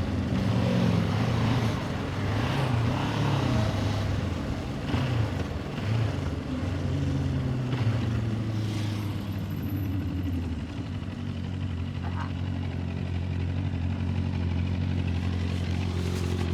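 Motorcycle engine running with its pitch rising and falling for the first several seconds, then settling to a steady idle about halfway through.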